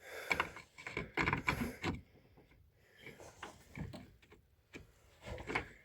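Scattered clicks, small knocks and scrapes of metal parts and tools being handled while a bolt is started by hand.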